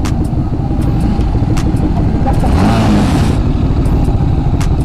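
Motor vehicle engine rumble with road noise, with a hiss that swells and fades about halfway through and a few sharp clicks.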